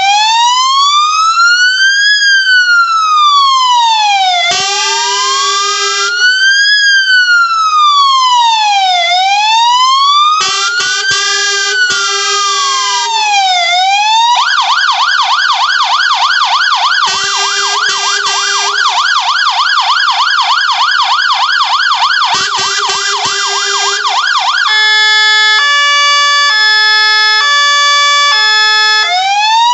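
Fire engine's electronic siren demonstrated through its tones: a slow rising-and-falling wail, then a fast warbling yelp, then a stepped high-low two-tone near the end, before the wail returns. Short blasts of a deeper, steady horn tone cut in between the siren patterns several times.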